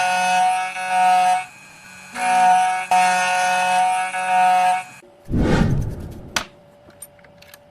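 A 2M2 Tank 2 Pro CNC key cutting machine whines at a steady pitch as it cuts the second side of a key blank, dropping out for about a second after the first second and a half. Near the end comes about a second of low rushing noise, then a sharp click.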